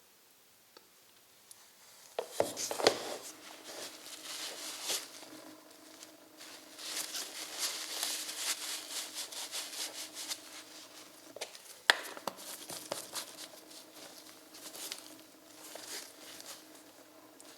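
Oil film strength test machine starting about two seconds in: a steady motor hum under loud, rough scraping of the metal sample rubbing against the spinning ring in the oil. A sharp click sounds about twelve seconds in.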